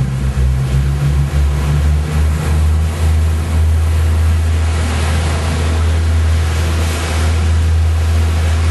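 Steady low rumble of a yacht under way, with wind buffeting the microphone and the wash of water over it.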